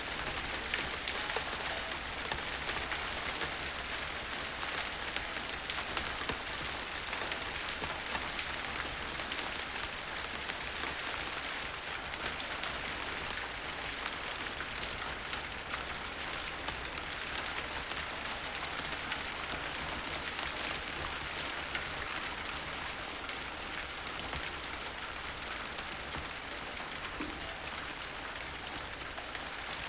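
Steady, heavy rain falling, a continuous hiss with many individual drops ticking close by; no thunder.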